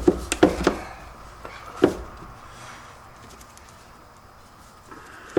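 A few sharp clicks and knocks of parts being handled while working in a car's engine bay, with one loud knock about two seconds in, then a quiet stretch of low shop background.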